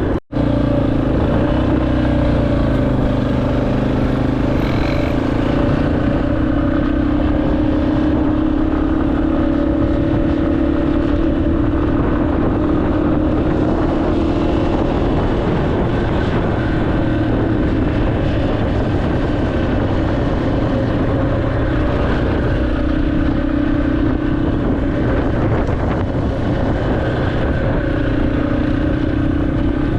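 Dual-sport motorcycle engine running at a steady riding pace on a rough gravel road, with wind and tyre rumble. The sound cuts out for an instant right at the start.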